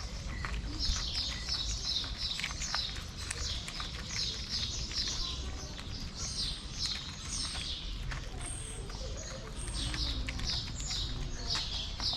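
Small birds chirping in quick series of short, high chirps, over a steady low rumble.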